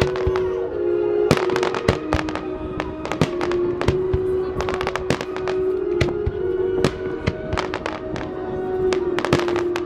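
Fireworks bursting in quick succession, a dense run of bangs and crackles, over music with long held notes.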